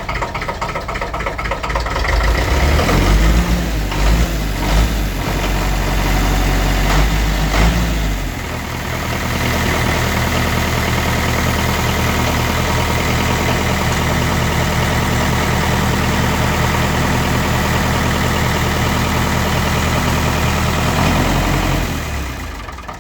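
Massey Ferguson 35 tractor's diesel engine on a cold start: it runs unevenly and loud for the first several seconds, then settles into a steady idle about eight seconds in.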